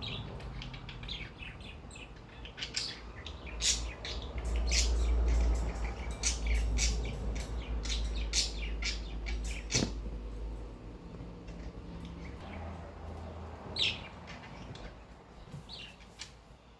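Cockatiel giving many short, sharp chirps, thickest in the first half and thinning out toward the end, over a low rumble.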